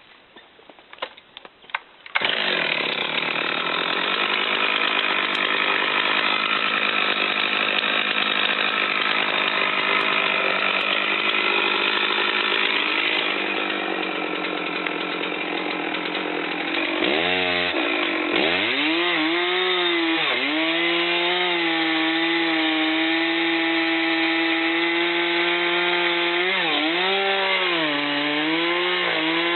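A chainsaw starts cutting about two seconds in and runs at high revs through the rest. Around two-thirds of the way its pitch falls and climbs back, then it holds a steady whine with a few brief dips in pitch.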